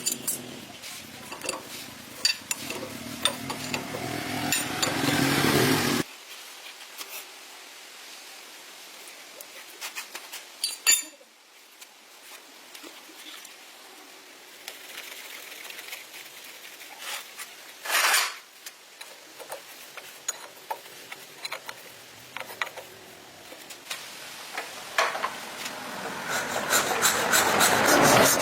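Hand work in a workshop: scraping and rubbing strokes with scattered clicks and knocks, in separate shots joined by sudden cuts. One scrape swells and then cuts off abruptly about six seconds in, and another builds up near the end.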